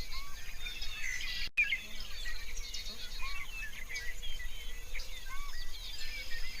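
Many birds chirping and calling together in a dense chorus of short chirps and whistles, with a brief dropout about a second and a half in.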